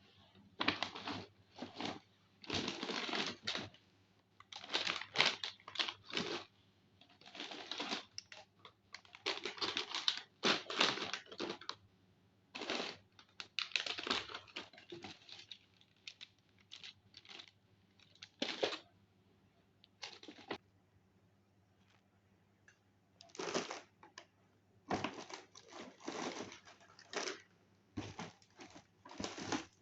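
Irregular bursts of crinkling, rustling noise, each lasting up to about a second, with short quiet gaps between.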